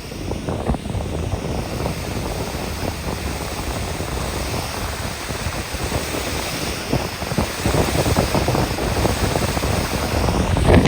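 Wind buffeting the microphone over a steady rush of water, getting a little louder near the end.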